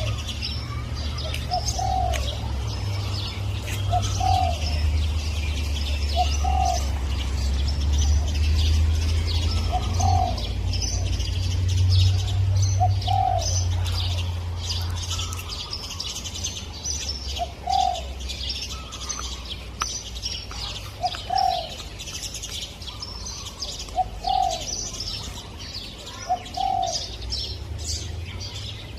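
Spotted dove cooing, a short phrase repeated about every two to three seconds, with many small birds chirping throughout. A low rumble of wind sits under the first half and dies down about halfway.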